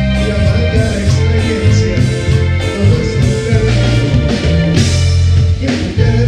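Tropical dance band playing a romantic ballad, with bass, guitar, keyboards and drums.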